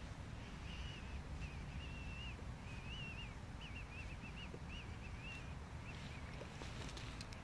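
A songbird singing a run of short warbled phrases, one after another for several seconds before stopping near the end, over a steady low outdoor rumble.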